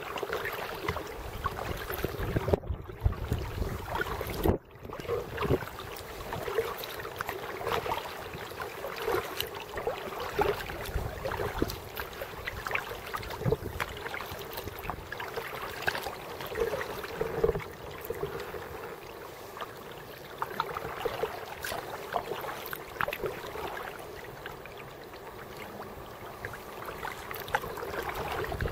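Kayak paddling: paddle blades dipping and splashing and water running along the hull, with many small irregular knocks and drips.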